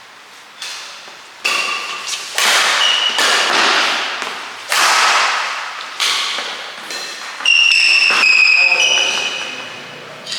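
Racket hitting a shuttlecock hard several times, about one to two seconds apart, each sharp hit echoing in a large hall.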